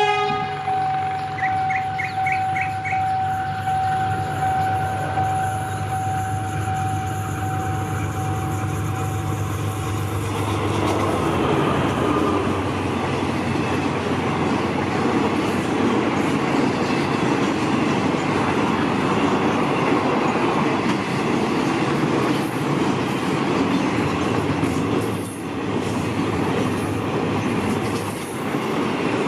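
Passenger train on the rails at a station: a steady hum with a held tone for about ten seconds, then the loud rolling noise of wheels and carriages passing, with clicking over the rail joints.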